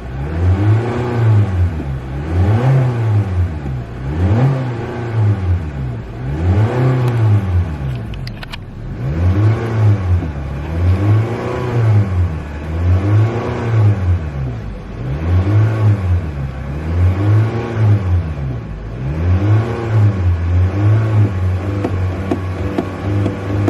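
Car engine being revved over and over in quick blips, each rev rising in pitch and falling back, roughly one every second and a half. It settles to a steady idle near the end.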